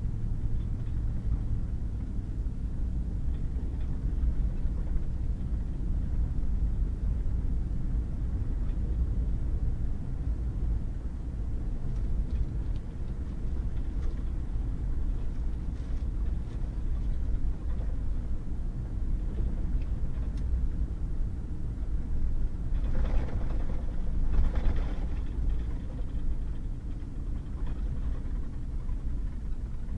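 Pickup truck driving on a wet gravel road: a steady low rumble of engine and tyres, with two brief louder rushes of noise a little over three-quarters of the way through.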